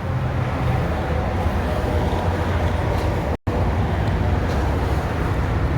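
Steady low rumble of vehicle traffic, broken by a split-second dropout about three and a half seconds in.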